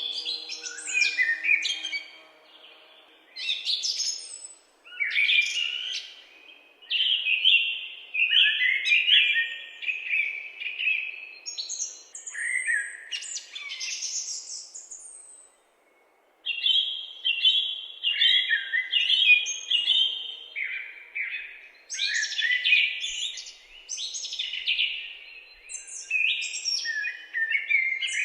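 Songbirds singing: a continuous run of warbled chirping phrases, each a second or two long, with one brief silent break about halfway through.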